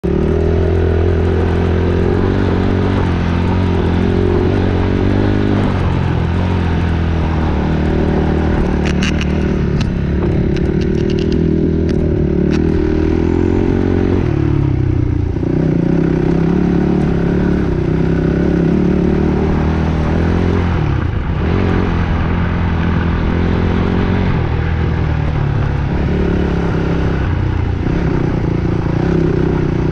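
Dirt bike engine running under changing throttle; its pitch drops and climbs back up twice, about halfway through and again some seconds later. A run of sharp clicks comes a third of the way in.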